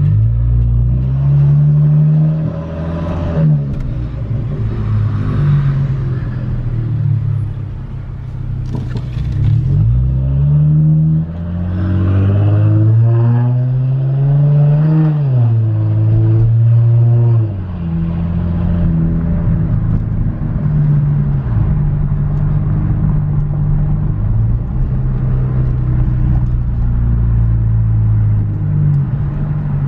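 2014 Dodge Challenger SXT's 3.6-litre V6 with the resonator and mufflers deleted (straight pipes), heard inside the cabin with the windows down. The exhaust note rises twice as the car accelerates and shifts, then settles into a steady low drone at cruise.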